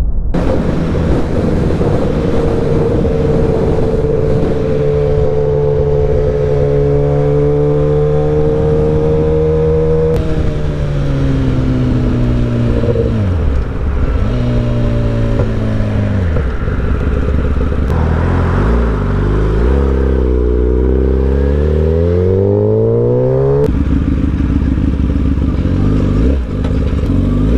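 Sport motorcycle engine under way with heavy wind rush on the rider's camera. The engine note holds steady, then drops in steps as the bike slows. It climbs hard under acceleration before a sharp gear change near the end.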